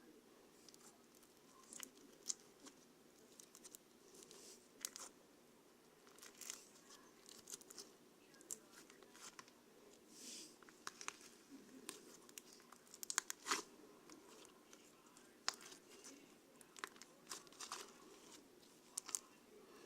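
Faint, irregular crinkling and small clicks of something being handled in a small room.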